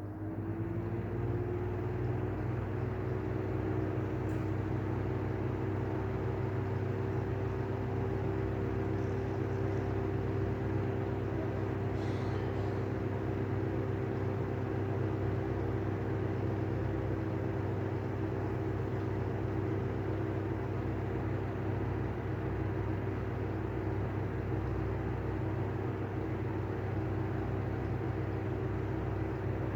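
Airflow exhaust fan running on bad bearings: a steady motor hum with several held tones over a rough, grinding haze. Its pitch rises and settles in the first couple of seconds as it comes up to speed.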